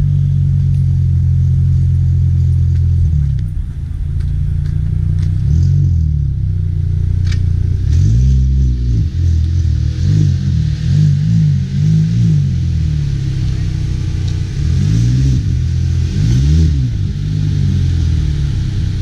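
A car engine running at a steady idle, then revved several times, each rev rising in pitch and falling back.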